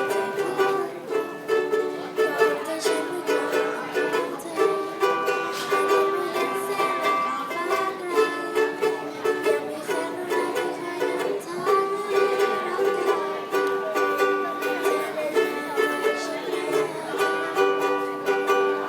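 Ukulele playing: rhythmic strummed chords with a melody of held notes, steady throughout.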